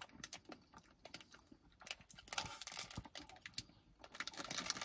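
Ice cream cone being chewed: faint, irregular wet clicks and soft crunches from the mouth, busier about two seconds in and again near the end.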